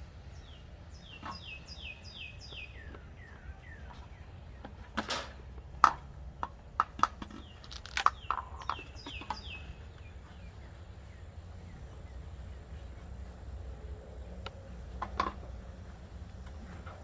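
A wild bird singing quick runs of short descending chirps, once near the start and again about halfway through. Between them come sharp clicks and knocks of hard plastic being handled, loudest in the middle and once more near the end.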